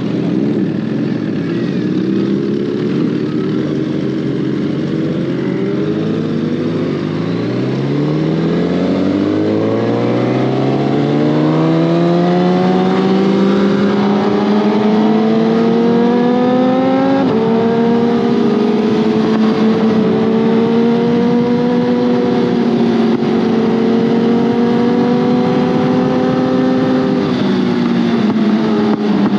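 Suzuki GSX-R1000R inline-four engine pulling hard, its pitch rising steadily for about ten seconds, then a gear change and a steady cruise, with wind rush throughout.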